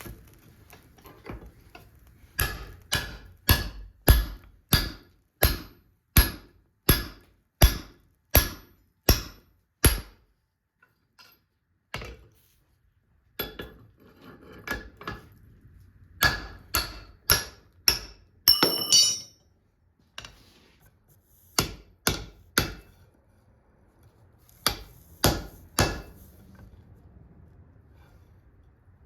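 Hand hammer forging a hot steel bar on an anvil: a steady run of about a dozen blows, roughly one and a half a second, then shorter runs of blows with pauses between them and a brief scraping clatter in the middle.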